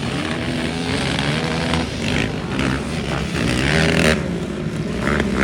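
Engines of several racing vehicles revving as they race around the track, their pitch rising and falling; one engine climbs and drops sharply about four seconds in.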